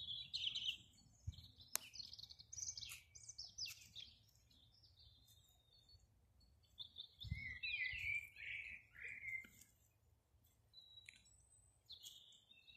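A songbird singing quick phrases that jump about in pitch, in two bouts of a few seconds each with a pause between, then a few short scattered notes near the end.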